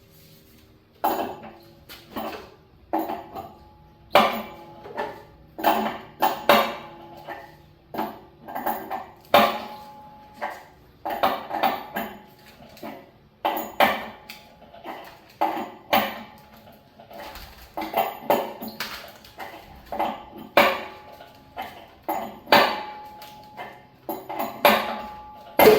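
A metal tool knocking and clinking against the water heater's metal fittings while a fitting is tightened: irregular sharp metallic strikes, one or two a second, each with a brief ring.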